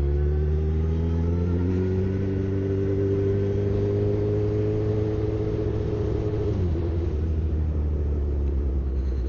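Suzuki GSX-R1000's inline-four engine pulling away, its pitch rising over the first few seconds and then holding steady, before dropping suddenly about two-thirds of the way through.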